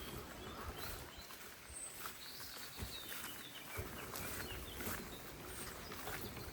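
Small birds chirping in short scattered calls, with a few faint footsteps or rustles over a low outdoor noise bed.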